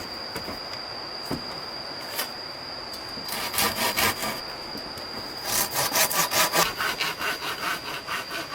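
Hand saw cutting wood in rapid back-and-forth strokes, in two bouts: a short one about three seconds in and a longer one from about five and a half seconds.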